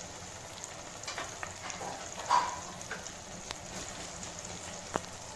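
Onion-tomato masala frying in oil in a pan: a faint steady sizzle with scattered crackles, a brief louder sound about two seconds in and a sharp click near the end.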